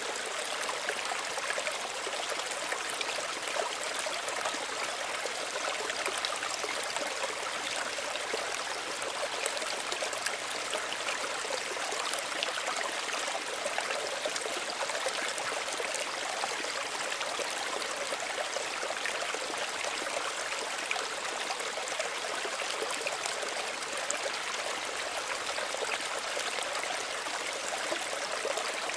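Small stream running steadily, water trickling and babbling over stones.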